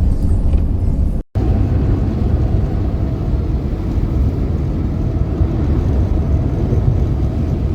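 Steady low roar of blizzard wind buffeting the microphone. It cuts out for an instant about a second in, then carries on.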